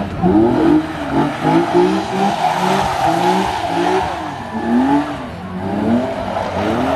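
Car engine revved hard over and over, each rev a short rising pitch, about one or two a second.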